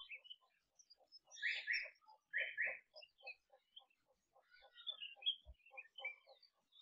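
Wild birds calling: a steady run of short, two-pitched pips about five a second, with scattered higher chirps over them and two louder paired calls, one about one and a half seconds in and one about a second later.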